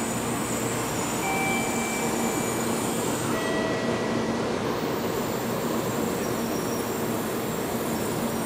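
Shinkansen bullet train standing at the platform: a steady hum and rumble, with faint thin high whines that come and go for a second or two at a time.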